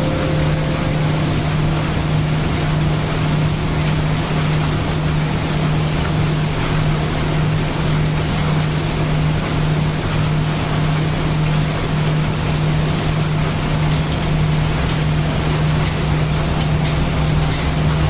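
Heavy rain with brown noise: a steady, dense hiss with a constant low hum beneath it.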